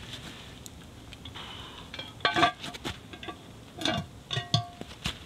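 Metal lid and cast-iron pot clanking together over a campfire as the lid is handled and set on. There are clusters of clanks about two seconds in, at about four seconds and at about four and a half seconds, a few ringing briefly.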